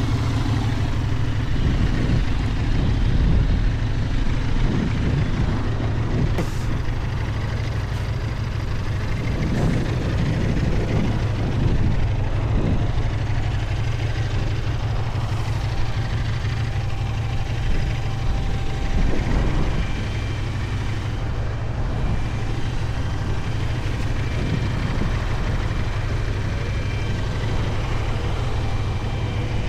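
Benelli Tornado 550's 554 cc parallel-twin engine running on the ride: a continuous low drone, mostly steady, with small swells in level.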